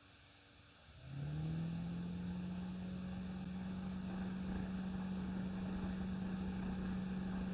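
Light aircraft's piston engine opened up to full power for the takeoff roll: about a second in, it surges and rises in pitch, then holds a steady drone.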